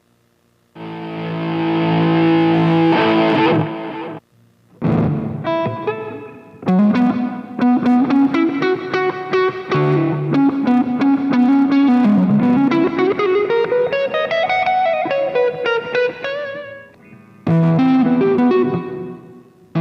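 Electric guitar played through a Nux MG-300 multi-effects processor with a distorted tone. A chord rings out about a second in, then a run of single notes, one phrase gliding up in pitch, and another chord near the end.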